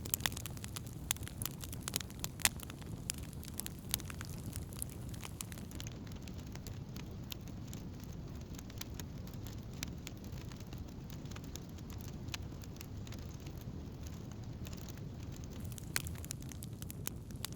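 Wood campfire burning, with scattered sharp crackles and pops over a steady low rush. The pops come thickest in the first few seconds and again near the end.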